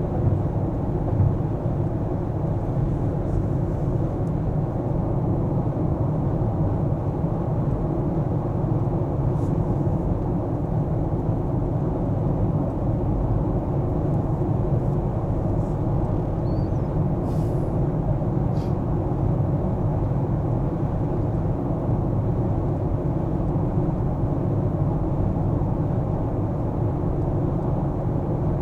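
Steady low rumble of a car driving on city streets: engine and tyre noise, with no change in level.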